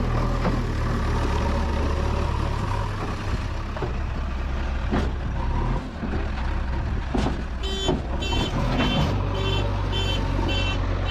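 Diesel engine of a JCB 3DX backhoe loader running steadily, with a few sharp knocks. About two-thirds of the way in, a reversing alarm starts beeping about twice a second.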